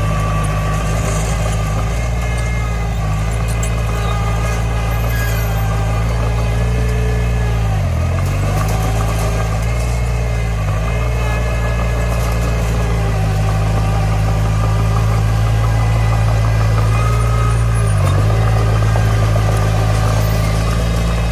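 Komatsu D20 bulldozer's diesel engine running steadily, its pitch dipping briefly twice, about eight seconds in and again near the end, before picking back up.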